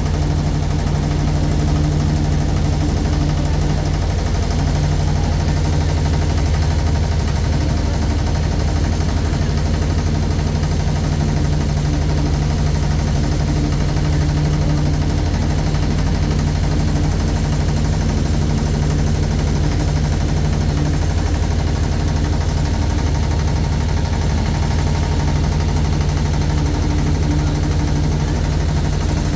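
A motorboat's engine running steadily, a low-pitched drone with no change in speed.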